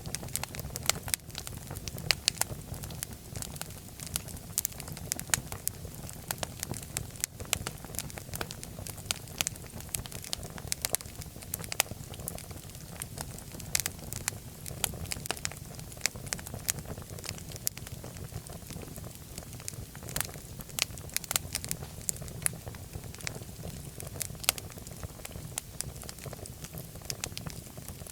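Wood fire crackling steadily, with irregular sharp pops and snaps over a low, constant rumble of the flames.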